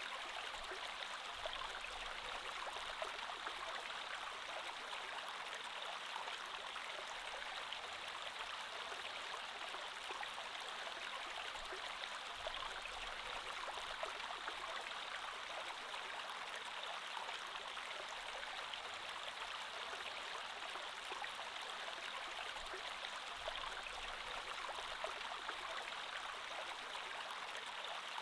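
Creek water flowing steadily over rocks, an even rushing with fine splashing and gurgling.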